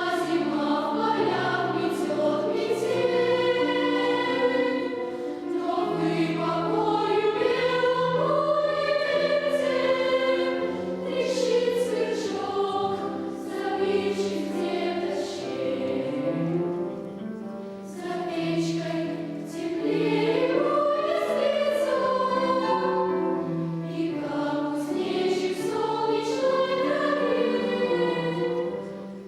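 Children's choir singing a part-song in Russian, several voice lines on sustained notes.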